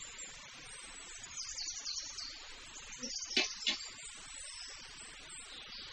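Outdoor ambience of insects, crickets or similar, with a steady high buzz. A few short high chirps come near the middle, and two sharp clicks a little past three seconds in.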